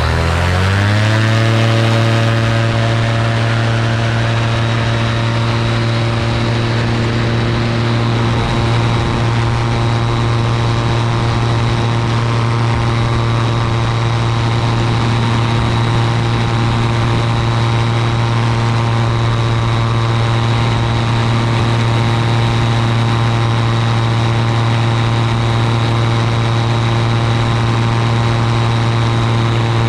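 Ultralight aircraft's engine and propeller running loud, its pitch climbing over the first second or two as the throttle opens, then holding steady.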